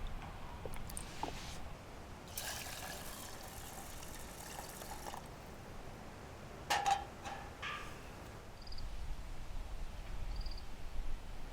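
Water being poured and trickling for a few seconds, followed by a sharp knock and a few small clinks.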